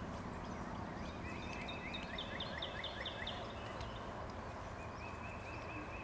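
A bird singing outdoors: a rapid run of repeated chirping notes starting about a second in and lasting about two seconds, with a shorter trill near the end, over steady outdoor background noise.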